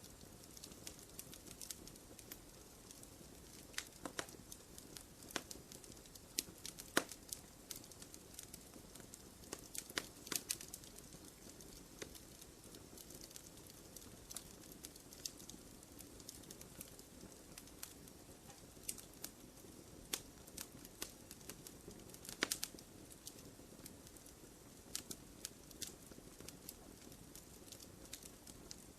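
Wood fire crackling in a fireplace: irregular sharp pops and snaps over a soft steady hiss, with a few louder pops.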